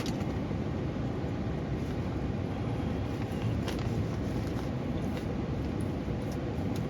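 Steady rushing of a small waterfall, with a few faint clicks over it.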